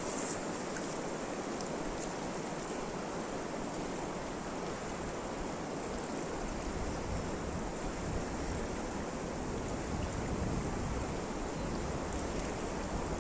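Steady rushing outdoor noise, with wind buffeting the microphone in low gusts that grow stronger in the second half.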